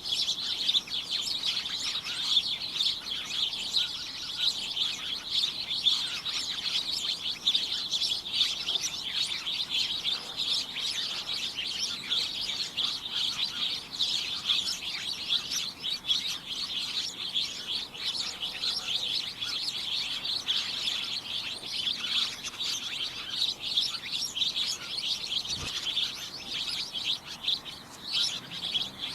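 Many small birds chirping at once in a dense, cacophonous chorus of short, high-pitched overlapping chirps, easing slightly near the end.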